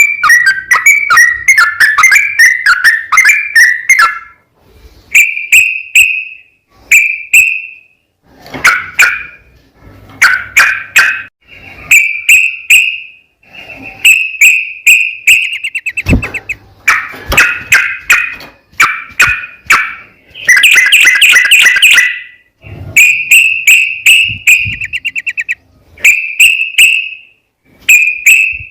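Yellow-vented bulbul singing loud, rapid, bubbling phrases one after another with short pauses between them: a recorded song used as a lure to set other bulbuls singing.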